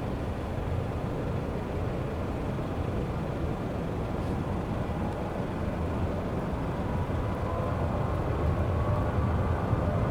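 Boeing 737-800's CFM56 jet engines running with a steady deep roar. In the last few seconds a whine rises in pitch as the engines spool up.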